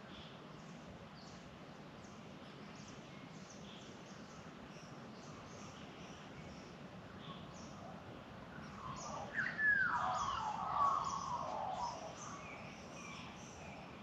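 Birdsong in the Australian bush: many short, high chirps from small birds run throughout, and from about nine seconds in a louder Australian magpie call, a sliding downward note followed by a rich warble, lasting about three seconds.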